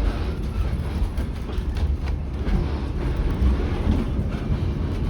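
Kuranda Scenic Railway passenger carriage in motion, heard from inside: a steady low rumble of wheels on the track with faint scattered clicks and rattles.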